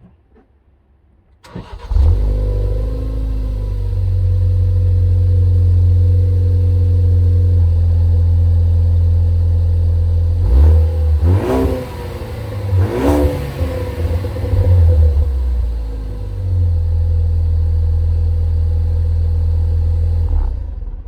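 Ford Focus ST250's turbocharged 2.0-litre four-cylinder engine starting about a second and a half in and settling to a steady idle through its exhaust. It is then revved twice in quick succession, each rev rising and falling back, and returns to idle before cutting off near the end.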